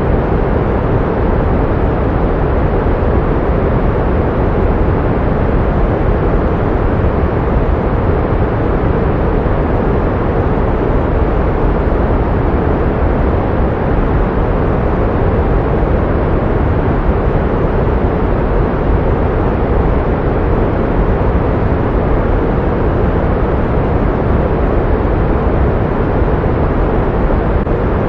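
Pink noise: a steady, unchanging hiss, heavier in the low end and thinning out toward the highs.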